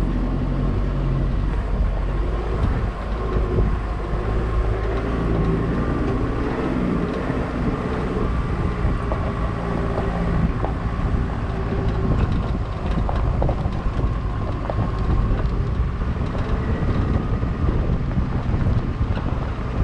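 A 4x4 vehicle's engine running under way, with tyre and road noise. The engine pitch shifts over the first few seconds, and there is a faint steady whine throughout.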